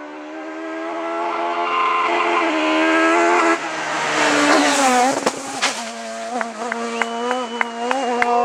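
Citroën Xsara rally car's engine at full throttle, growing louder as it approaches. It passes about five seconds in with a drop in pitch, then runs on at a lower note with a series of sharp cracks.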